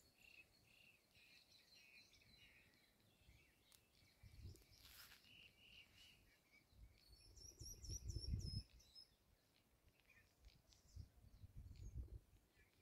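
Faint open-air ambience with birds calling: scattered faint chirps, then a quick run of about six high, curving notes a little after the middle. Low rumbles, like wind on the microphone, come twice.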